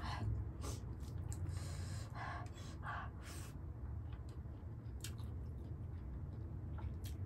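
Close-miked chewing and wet mouth smacks of a person eating rice and pork curry by hand, with fingers squishing rice on a plate. A cluster of louder wet smacks comes about one and a half to three and a half seconds in, over a steady low hum.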